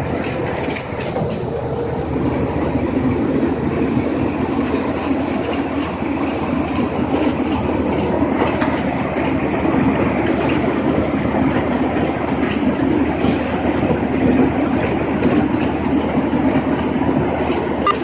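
Tractor-driven mini rice mill running steadily. The loud, continuous mechanical rattle and clatter of the huller mixes with the tractor's diesel engine.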